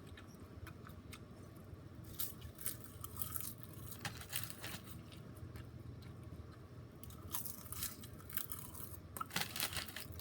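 Irregular crackling and clicking over a low steady hum, with the clicks thickening about two seconds in and again near the end.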